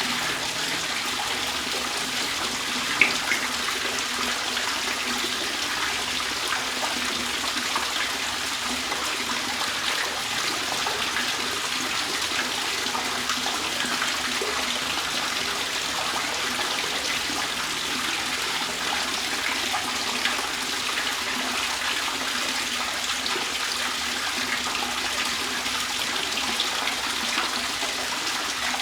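Steady trickling and splashing water, with one brief sharp sound about three seconds in.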